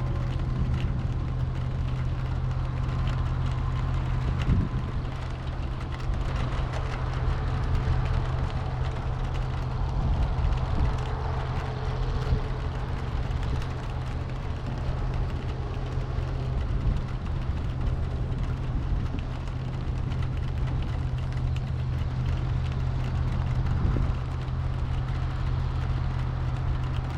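Steady engine and road noise heard inside a moving vehicle's cabin.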